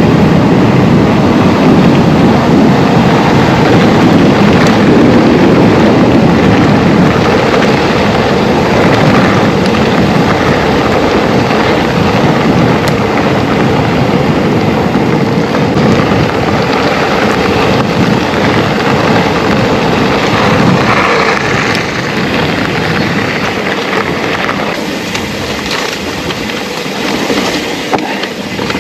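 Wind rush on the bike-mounted action camera and tyre roar from a Trek Rail 7 electric mountain bike descending a gravel fire road, with scattered clicks and knocks from the bike. The noise eases off a little in the last few seconds.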